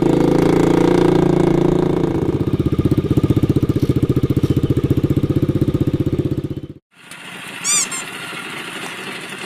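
Small gasoline engine running steadily, then dropping about two seconds in to a slow idle whose individual firing pulses can be heard. It cuts off abruptly near the end, leaving a quieter background with a brief high squeak.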